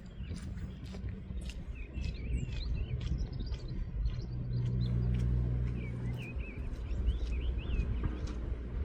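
Small songbirds singing and chirping in quick twittering phrases, over a low rumble that swells in the middle and eases off, with a few scattered clicks.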